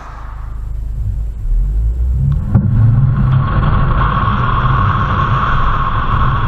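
In-car noise of a BMW 520d on the move: low engine and road rumble from its 2.0-litre four-cylinder diesel grows louder over the first couple of seconds, then holds steady with a tyre and wind hiss.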